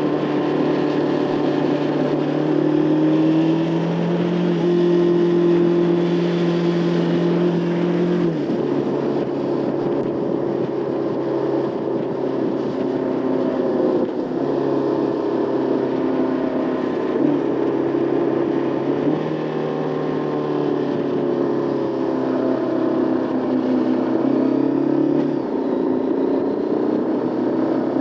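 Motorcycle engine running under way, its note holding steady and then dropping in pitch about a third of the way in, with a few more shifts in pitch later, over steady wind and road noise.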